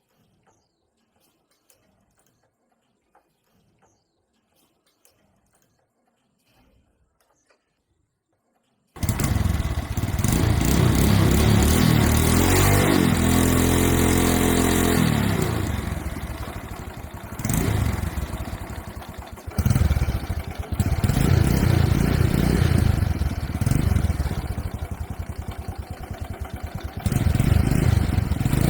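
Faint light clicks, then about a third of the way in the restored Honda Dream motorcycle's engine is suddenly heard running loudly, revved up and eased back several times.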